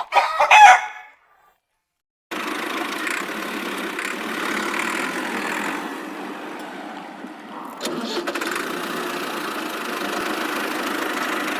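Chickens: a short call, then a flock of hens clucking together in a steady, busy chatter.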